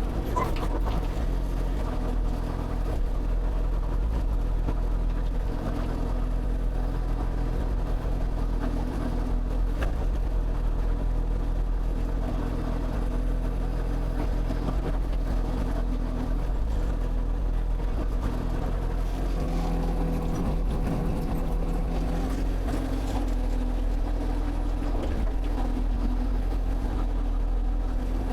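Excavator engine running steadily under work, a constant low hum whose note shifts for a couple of seconds about two-thirds of the way through.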